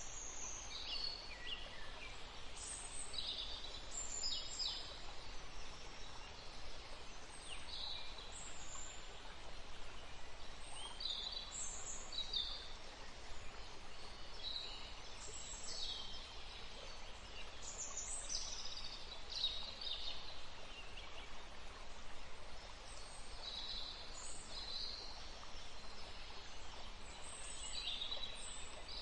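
Small woodland birds chirping over the steady rush of a stream. The calls are short, high and often drop in pitch, coming every second or so throughout.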